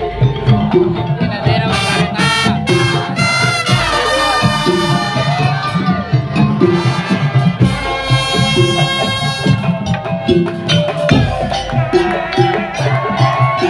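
Madurese daul (tongtong) ensemble playing: drums and percussion keep a steady repeating beat, and a pitched melody rises over it twice.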